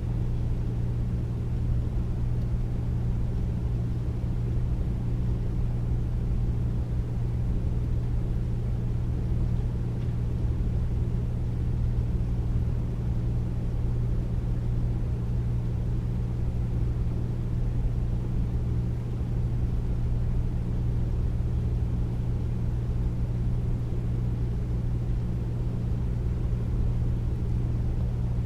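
Air conditioner running steadily with its cooling off, a deep, unchanging hum with a rush of air over it.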